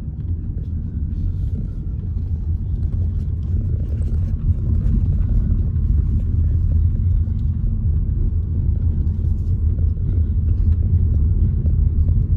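Steady low rumble of a car driving, road and engine noise, growing a little louder about four and a half seconds in.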